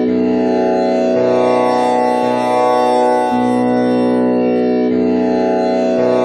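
Tanpura drone in B scale with the komal Ni tuning, its strings plucked in turn about once a second, each note ringing on into the next.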